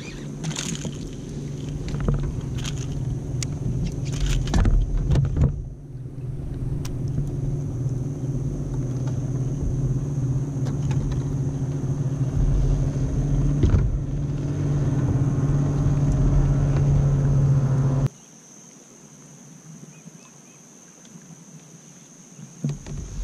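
A steady motor hum with low rumbling and occasional clicks and knocks, which cuts off suddenly about 18 seconds in and leaves a much quieter background.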